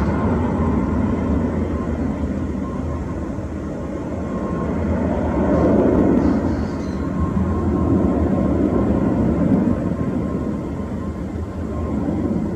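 Jet airliner engines running loud, a continuous low rumble with a thin steady whine, the noise swelling about halfway through and again a few seconds later.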